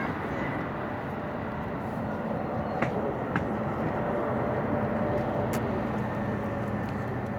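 A train running past on the nearby railway line: a steady rumble with two sharp clicks about three seconds in, mixed with the distant engine noise of a Boeing 777-300ER on landing approach.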